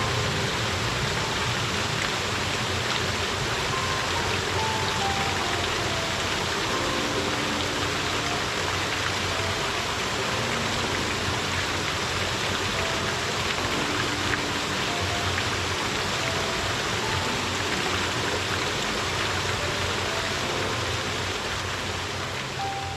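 Steady rush of spring water pouring and flowing over rocks in a small stream, with a soft melody of single notes playing over it.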